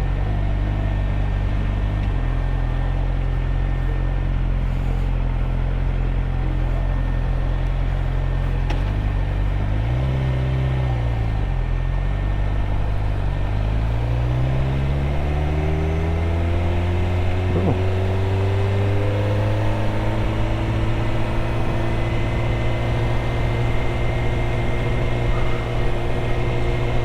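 Suzuki GSX-R600 inline-four engine holding steady at low revs, with a short rise and fall in revs about ten seconds in. From about thirteen seconds the engine pulls away and climbs steadily in pitch, then settles into a steady cruise.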